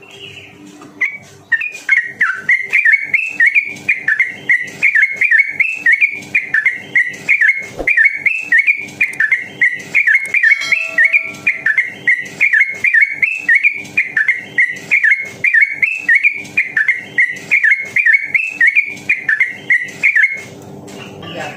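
Yellow-vented bulbul (trucukan) singing a fast, unbroken run of repeated whistled notes, several a second. This is the rapid rolling 'ropel' song that bird keepers play to push a pet bulbul into song. It starts about a second and a half in and stops about a second before the end.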